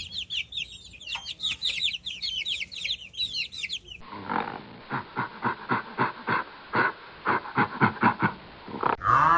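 A small bird's rapid, high chirping song, then, after a cut, a chicken clucking in a steady run of short calls, about three or four a second. A different bird's honk starts right at the end.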